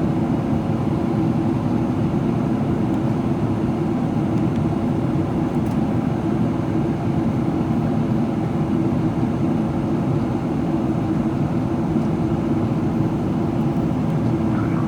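Steady cabin noise inside a Boeing 777-300ER in descent: a low, even rush of airflow and GE90 engine noise.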